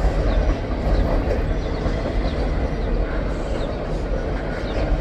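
Empty freight cars of a long train rolling past, a steady rumble of wheels on rail with a few faint, short, high squeaks.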